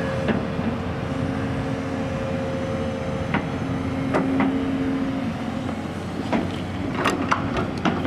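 Heavy diesel vehicle engine running steadily, with a low drone and a held hum. Sharp metallic clanks come now and then, more often near the end.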